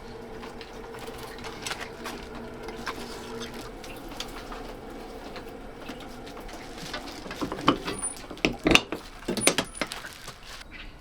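Scattered small clicks and clatter, with a cluster of louder sharp knocks about eight to nine seconds in, over a faint steady hum.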